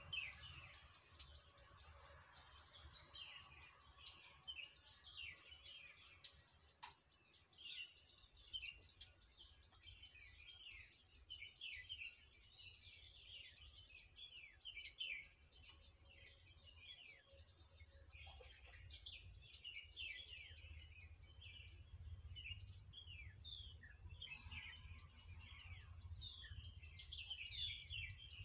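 Small birds chirping in quick, overlapping series of short, high chirps that drop in pitch, with a faint steady high-pitched tone behind them.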